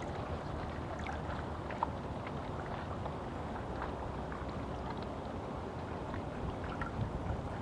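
Small waves on a reservoir lapping steadily, with scattered little splashes and plips over a steady wash of water and wind.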